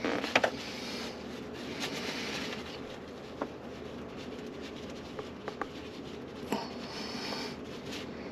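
Light scratching and handling noises with a few short, sharp clicks, from hands working on a garbage disposal's sink mount.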